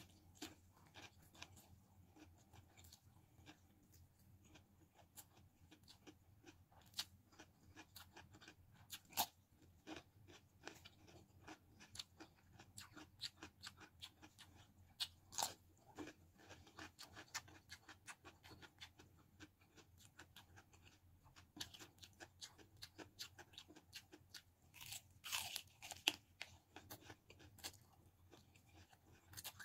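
Close-up eating sounds: irregular crisp crunches and chewing clicks from biting raw baby cucumber and bitter gourd eaten with noodles, with a quick run of crunches near the end.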